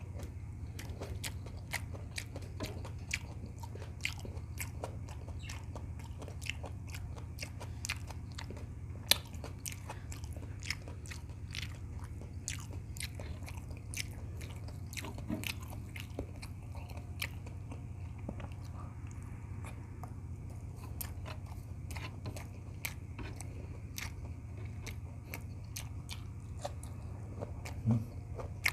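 Close-miked mouth sounds of a person eating beef tocino with rice: chewing and biting with many small crunchy, wet clicks, over a steady low hum. A louder knock comes near the end.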